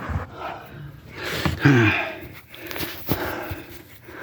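A person breathing out hard with a brief falling vocal grunt, and a few sharp clicks of handling.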